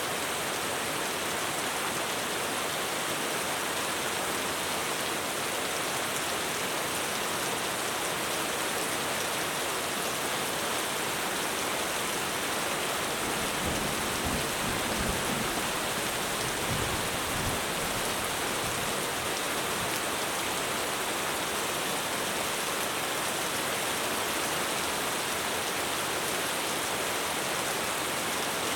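Heavy rain pouring steadily on a roof, with a low rumble of thunder that builds and fades about halfway through.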